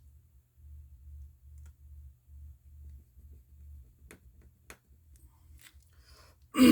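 A few faint, sharp clicks of small hand tools on the open iPhone 13's screws and brackets, mostly in the second half, over a low hum that pulses about twice a second.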